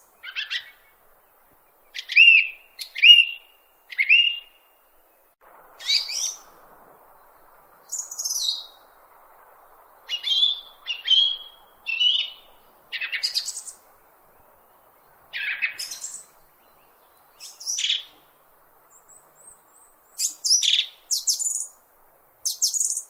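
Bird chirping: a series of short, separate high chirps with pauses between them, some sliding down in pitch, with a faint hiss beneath for a stretch in the middle.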